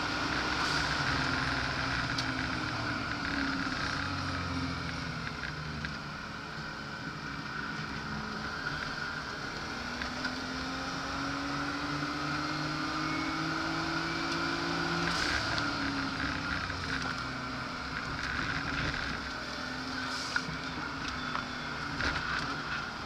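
Car engine running hard on a race circuit, heard from inside the cabin over road and wind noise. The engine note climbs steadily for about five seconds under acceleration, then drops sharply about fifteen seconds in.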